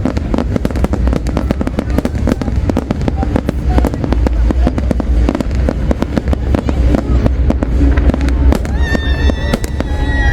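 Large fireworks display: a dense, continuous barrage of rapid bangs over a deep rumble. Steady high whistling tones join in near the end.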